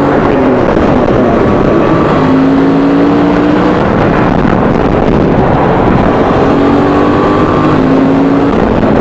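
Suzuki V-Strom 650's V-twin engine running while riding, under heavy wind rush on the microphone; its note climbs slowly twice, about two seconds in and again near the end.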